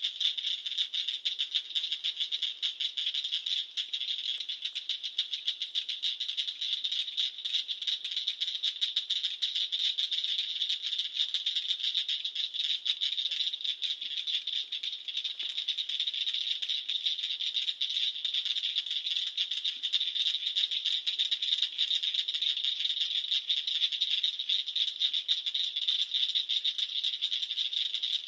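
A dense chorus of calling frogs: many overlapping rapid, high trills merging into one unbroken pulsing wall of sound.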